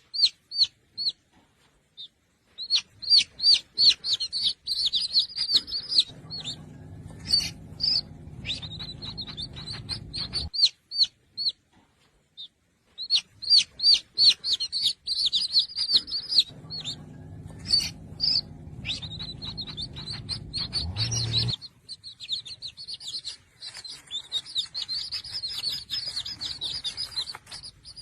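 A small bird chirping in quick runs of short, high, repeated notes, with brief pauses between runs. Twice a low steady hum sounds underneath and cuts off suddenly.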